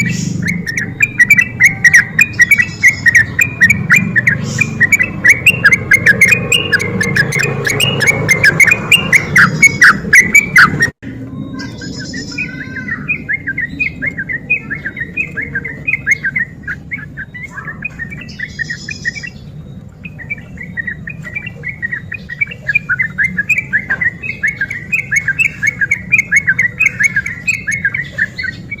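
Yellow-vented bulbul (trucuk) singing: a continuous run of rapid, chattering, bubbling notes. About eleven seconds in, the sound cuts off for an instant and resumes somewhat quieter. A few higher calls from another bird break in now and then.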